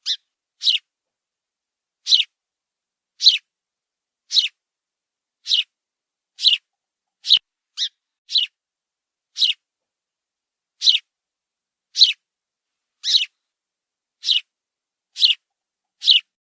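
An animal's short, high-pitched calls, repeated about once a second with silence between them.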